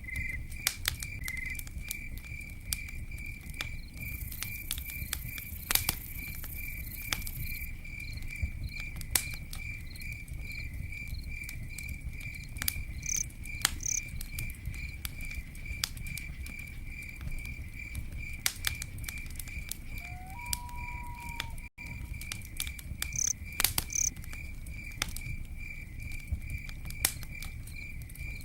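Crickets chirping in a steady, regular pulsed trill over a crackling campfire, with sharp pops and snaps scattered throughout and a low steady rumble of the burning fire beneath. A short held note is heard about twenty seconds in.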